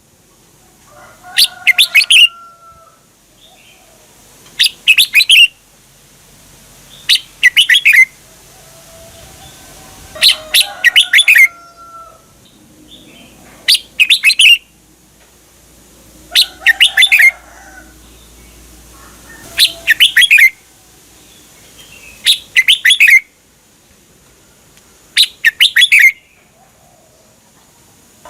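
Red-whiskered bulbul singing: short, loud, bright song phrases repeated about every two to three seconds, about ten times.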